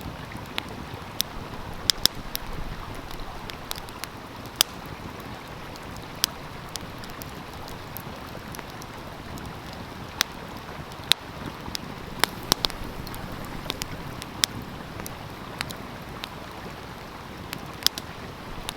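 Wood fire crackling, with sharp irregular pops every second or so, over the steady rush of a stream.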